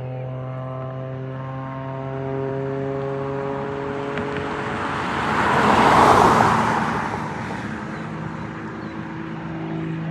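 Propeller aircraft engine running with a steady hum, while a rushing pass-by noise swells to its loudest a little past the middle and then fades away.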